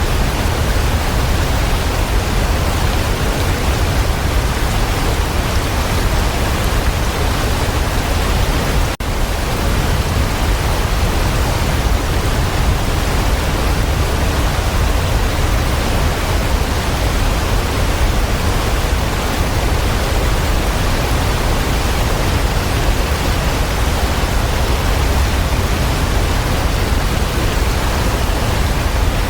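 Waterfall: a steady, unbroken rush of falling water, heaviest in the low rumble. There is a momentary dip in the sound about nine seconds in.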